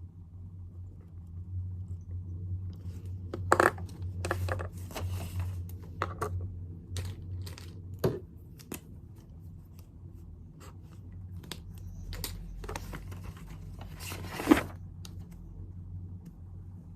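Things being handled on a desk: papers rustling and scraping, with a run of clicks and knocks, the sharpest about three and a half seconds in and near the end, over a low steady hum.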